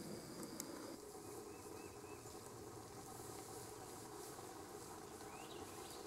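Faint, steady outdoor woodland ambience with a few soft, distant bird chirps: a quick run of short chirps about a second in, and a single rising call near the end.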